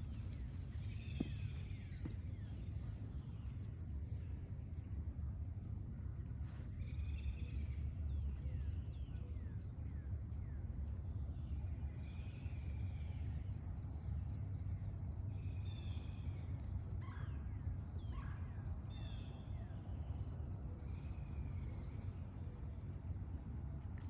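A songbird sings short phrases every few seconds, over a steady low rumble.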